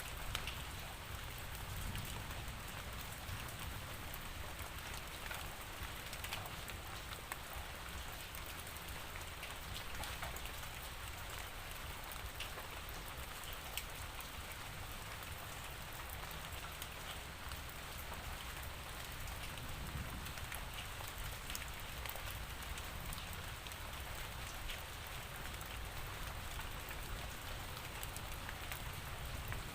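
Steady rain falling, a continuous hiss with the patter of many individual drops.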